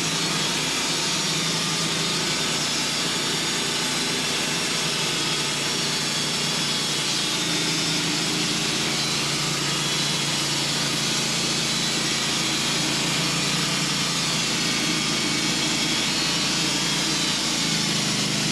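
Portable sawmill running steadily under load as its blade saws a slab off a hemlock log.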